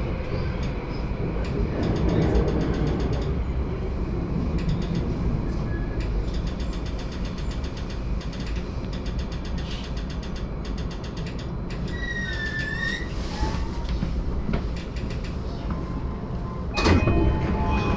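Yamanote Line train's steady low rumble at Shinjuku station, its motor whine falling away at the start. A few short tones sound about two-thirds through. Near the end a sudden louder passage with steady musical tones begins: the start of the platform's departure melody.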